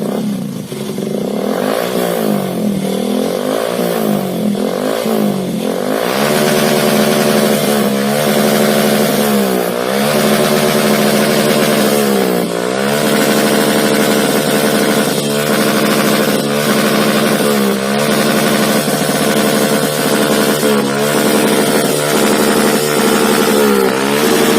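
Yamaha FZS V2's single-cylinder engine running through an aftermarket Akrapovic exhaust, idling and blipped repeatedly. The revs come in quick blips about once a second for the first few seconds, then one every two to three seconds.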